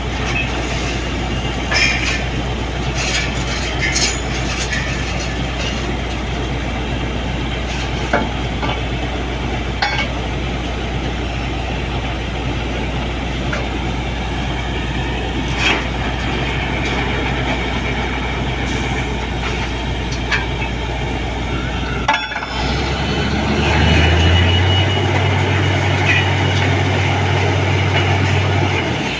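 Heavy engine of a borewell drilling rig running steadily, with occasional sharp metallic clinks. The sound cuts abruptly about 22 seconds in, and a steadier, slightly louder engine hum follows.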